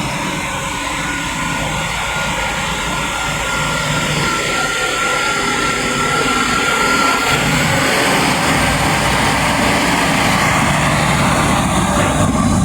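A train moving through the station: a steady rumble and rail noise, with a thin whine over the middle stretch.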